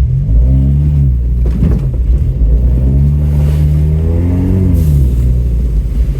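Off-road truck engine revving, rising in pitch and dropping back twice: briefly about a second in, then longer from about three to five seconds, over a steady low rumble.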